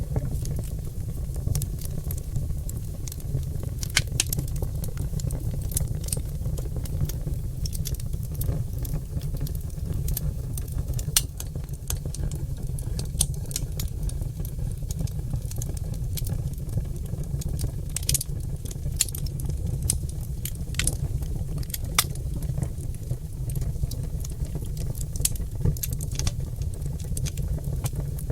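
Oak logs burning in a fireplace: irregular sharp crackles and pops over a steady low rumble.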